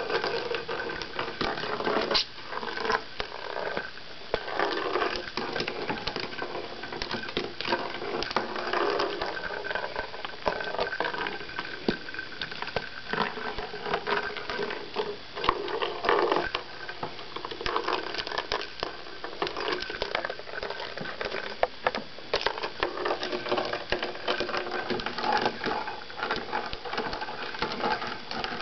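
Pet budgie playing with a small ball: a steady, irregular run of clicking and rattling as the ball is pushed, pecked and rolled about.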